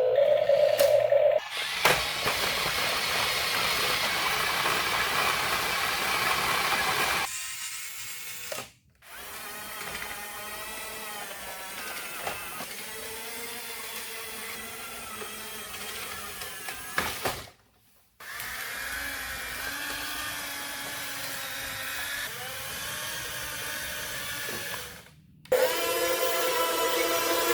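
RC car's small electric motor and gears whining, the pitch rising and falling with throttle, in several short clips broken by abrupt cuts.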